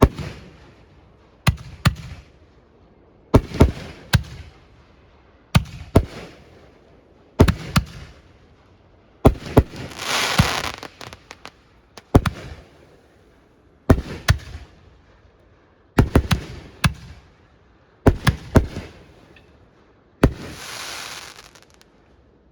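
Fireworks bursting in a steady sequence: about every two seconds a sharp bang followed by two or three smaller reports. Twice, about halfway through and near the end, a longer hiss lasts a second or so.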